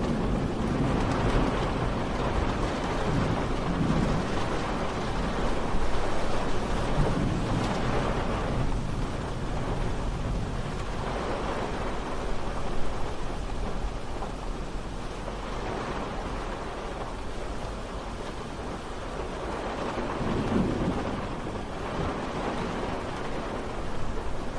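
Steady rain falling, with low rolling rumbles of distant thunder swelling up now and then.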